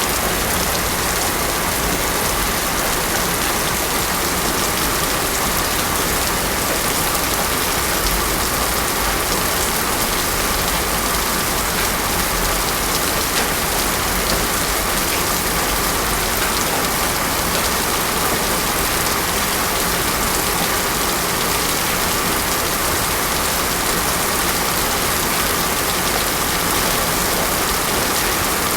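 Heavy rain falling steadily on a road surface, a dense, even hiss of drops with no thunder.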